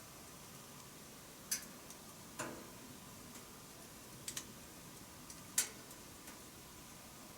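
Wood fire in a wood-burning stove crackling: irregular sharp snaps and pops every second or two, a quick double snap about four seconds in and the loudest about five and a half seconds in, over a faint steady hiss.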